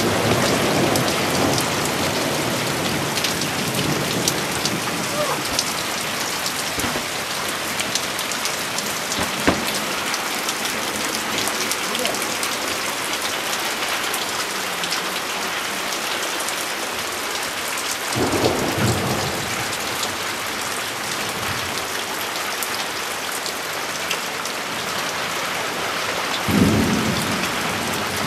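Heavy rain falling steadily on leaves and ground in a thunderstorm. A sharp tap comes about a third of the way in, and two short low rumbles come, one a little past the middle and one near the end.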